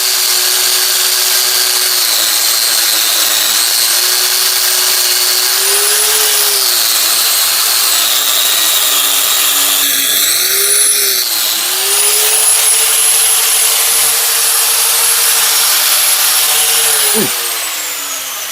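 Harbor Freight angle grinder running against a steel hammer head to clean it, its motor whine dipping and recovering as it bears on the work. Near the end it is switched off and winds down with a falling whine.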